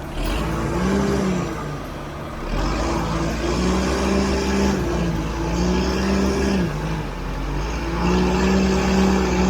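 Heavy-equipment diesel engine revving up under load and settling back about four times, each rise lasting one to two seconds.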